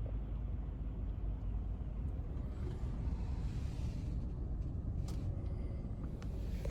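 Steady low rumble of a car driving, with road and engine noise and no distinct events.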